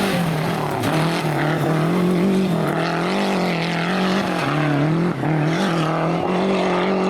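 Rally car engine running hard, its pitch rising and falling several times as the driver shifts and lifts, with a brief drop about five seconds in.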